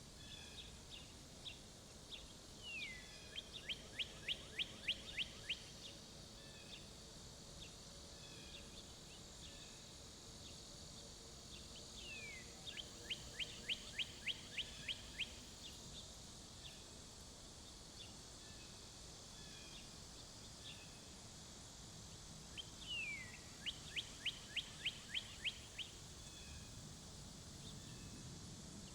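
A songbird sings the same song three times, about ten seconds apart. Each song is a falling slurred note followed by a quick run of about ten short, even notes. A steady high-pitched hiss and faint scattered chirps run underneath.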